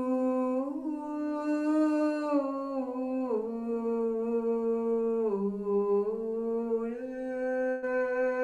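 A woman's voice humming long, wordless held notes. The notes slide down in pitch twice and come back up near the end.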